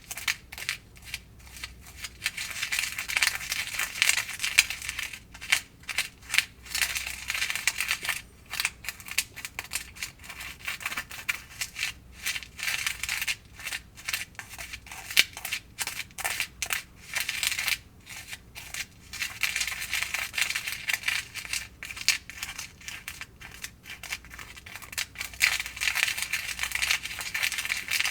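Small plastic spoon stirring and scraping in the plastic trays of a Kracie DIY candy kit, working powder and water into a paste: rapid small clicks, scrapes and crunches that come in busy spells with short pauses between.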